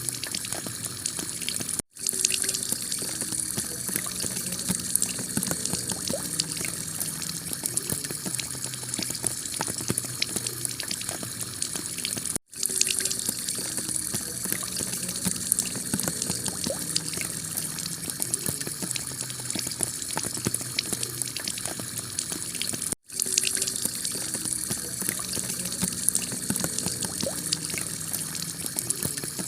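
Heavy rain falling on a clay tile roof: a steady hiss thick with the ticks of single drops. Three times, about ten seconds apart, it cuts out for a split second and comes straight back.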